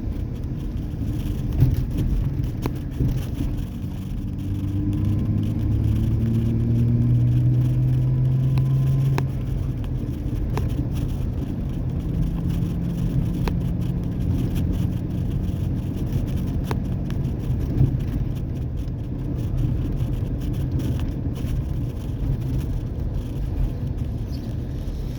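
Exhaust of a 2003 Ford Ranger's 4.0-litre V6 with the muffler deleted and the catalytic converters still on, heard while driving. The engine note rises as the truck accelerates for a few seconds, then settles into a steady drone at cruise.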